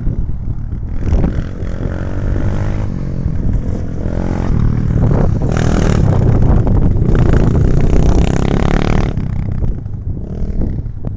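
Enduro motorcycle engine running under throttle, revving up and down. It is loudest through the middle and eases off near the end.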